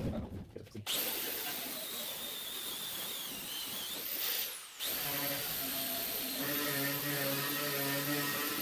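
Rotary power tool fitted with a stripping disc or wire wheel, grinding paint and rust off steel. It starts up about a second in, runs steadily under load, cuts out briefly a little past the middle, then spins up again.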